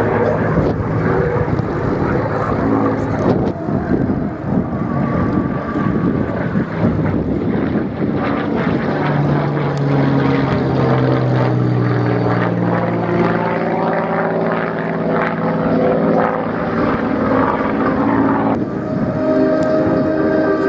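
WWII piston-engined propeller fighter flying past in a display, its engine note sweeping in pitch as it passes about halfway through. Music comes in near the end.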